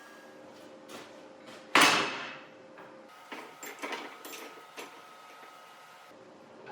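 A loud metallic clank about two seconds in, fading quickly, then several lighter knocks and clatters, over a steady hum: steel being handled in a forge shop.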